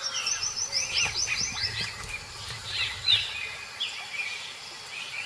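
Wild birds chirping and calling: a fast run of short high chirps over the first couple of seconds, then single calls about once a second.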